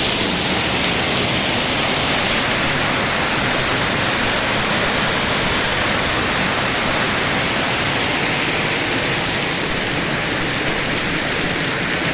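Waterfall pouring, heard from right in the falling water: a steady, loud rush of water that gets a little hissier from about two seconds in.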